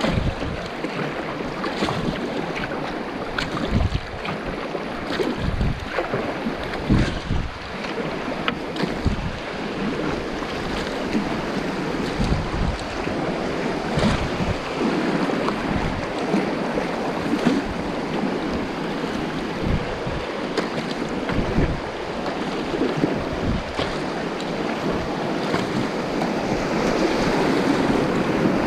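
White water of a river rapid rushing steadily, with wind buffeting the microphone in frequent low thumps.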